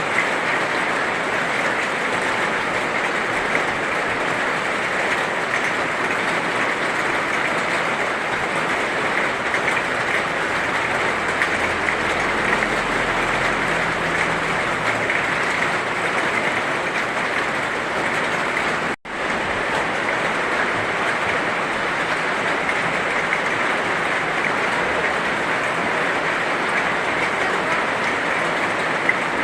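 Heavy rain falling in a steady, even hiss. It cuts out for a split second about two-thirds of the way through.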